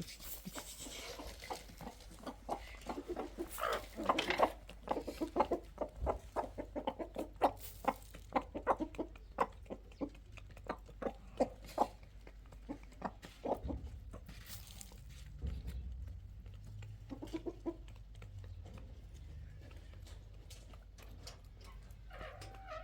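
Chickens clucking: a quick run of short, repeated clucks for the first half, thinning out to a few scattered calls afterwards.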